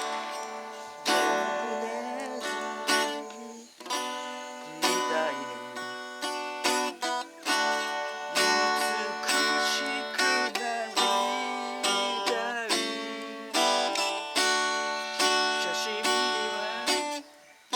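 Acoustic guitar played without singing: plucked chords and notes that start sharply about once a second, as an interlude between sung lines.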